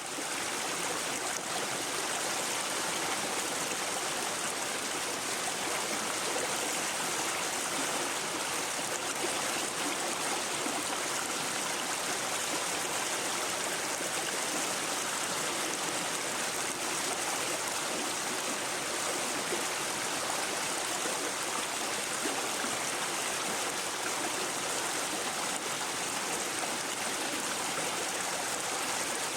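Shallow brook babbling and gurgling over stones in a steady rush, fading in over the first second.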